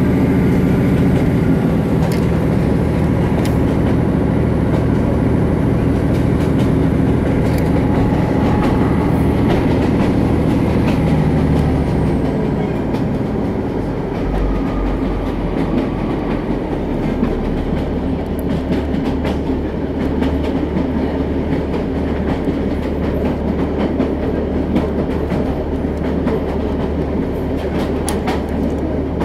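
Passenger train running, heard from inside the carriage: a steady rumble of wheels on the track with scattered clicks from the rails. The sound eases a little about twelve seconds in.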